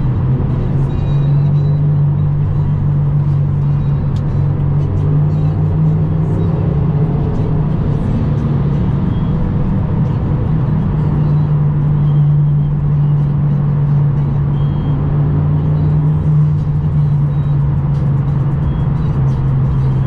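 Chevy C10 square-body pickup cruising at a steady speed, with its engine and road noise droning in the cab. Music plays over it.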